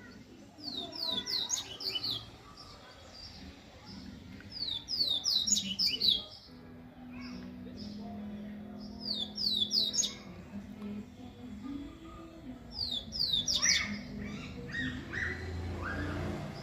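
Coleiro (double-collared seedeater) singing: four short song phrases of quick, high downward-sweeping notes, each about a second long and a few seconds apart, the last followed by some lower notes.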